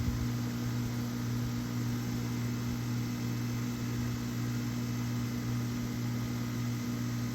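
Central air conditioner's outdoor condensing unit running steadily: a low compressor hum under the even rush of the condenser fan, with no sign of shutting down yet.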